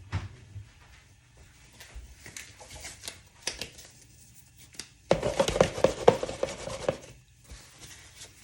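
Kitchen handling sounds while getting ready to season chicken: scattered clicks and light knocks, then a dense rustling, clicking stretch of about two seconds starting about five seconds in, the loudest part.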